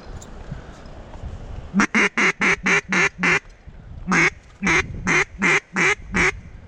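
Loud mallard-style quacking: a quick run of about six quacks, a short pause, then five more in the same steady rhythm.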